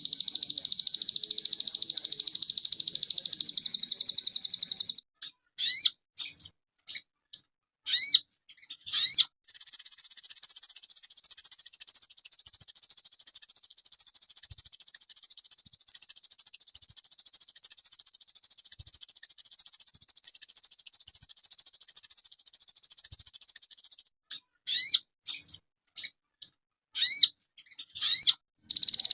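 Sogon songbird singing: long, fast, unbroken high twittering trills, twice giving way to a few seconds of separate sharp upward-sweeping chirps.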